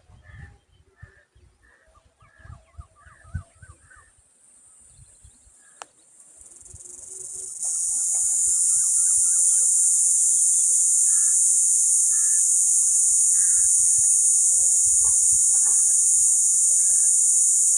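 Insects droning in one steady high-pitched buzz that swells over the first several seconds and then holds loud and unbroken. Beneath it, short bird chirps repeat about once a second, with a few low thumps in the first few seconds.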